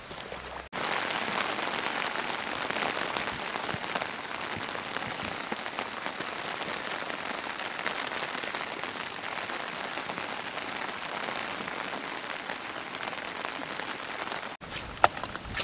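Rain falling steadily on a tent, heard from inside the tent: a dense, even patter that starts abruptly about a second in and cuts off shortly before the end.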